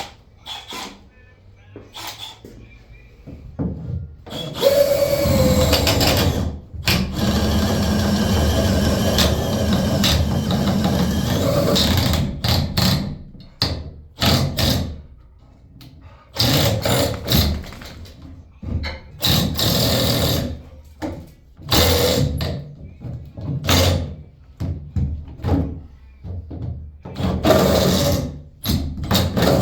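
Power drill boring through wooden wall studs with a long 1-inch spade bit. It runs in one long stretch of about seven seconds, then in a series of short stop-start bursts. It is hard going for the bit, a little bear of a bore.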